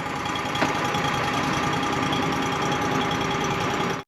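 An engine running steadily with a faint steady whine over it; it cuts off suddenly near the end.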